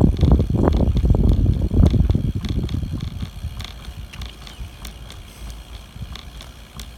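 Wind buffeting the microphone during a bicycle ride, a loud low rumble for the first three seconds or so that then eases off, with faint scattered clicks and rattles from the bike.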